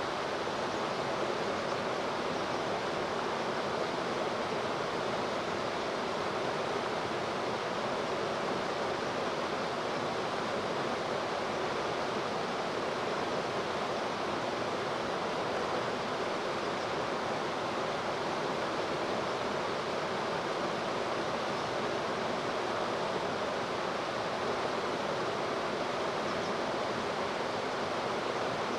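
Steady rushing of flowing river water, unchanging throughout, with no splash or call standing out.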